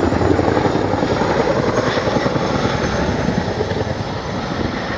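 RAF Chinook tandem-rotor helicopter in display flight, banking through a wide wingover turn. Its blades chop in a fast, steady rhythm over the whine and rush of its engines, easing off slightly toward the end.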